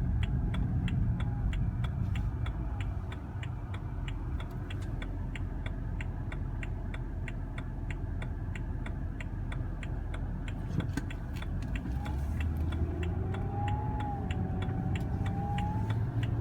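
BMW 328i engine running at low rpm with a whine that comes and goes, rising and falling in pitch, clearest near the end. A regular ticking, about two to three clicks a second, runs alongside it.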